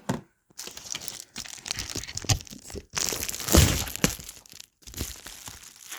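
A shipping package being cut and torn open by hand, its packaging rustling and crinkling in irregular bursts, loudest a little past the middle.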